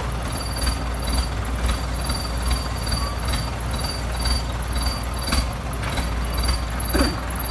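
Diesel engine of an excavator running steadily with a low rumble. Sharp ticks recur roughly every half second, along with a faint high-pitched pulsing tone.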